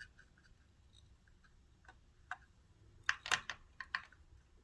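Small metal parts of a sewing machine's zigzag cam mechanism clicking and tapping as they are fitted onto a spindle, with a quick run of sharper clicks about three seconds in.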